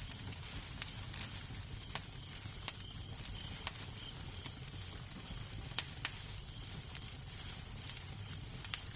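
Wood fire burning in a fireplace: a steady hiss and low rumble with irregular sharp crackles and pops, the loudest about a third of the way in and a pair a little past the middle.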